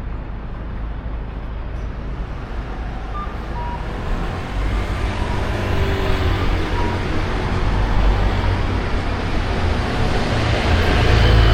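Street traffic noise with a low rumble, growing steadily louder over several seconds as a vehicle draws closer.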